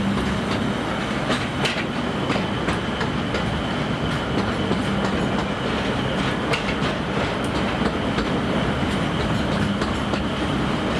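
Narrow-gauge forest railway train running steadily, heard from aboard. The wheels rumble on the track, a low hum runs under it, and sharp clicks come at irregular intervals over the rail joints.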